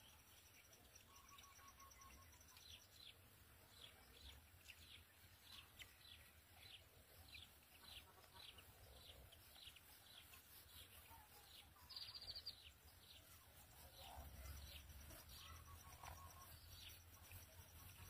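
Faint bird chirps, a string of quick falling notes about two a second that fade out in the middle, over a low rumble.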